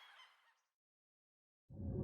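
Geese honking, fading out within the first moments, then about a second and a half of dead silence. A low rumbling noise starts and swells near the end.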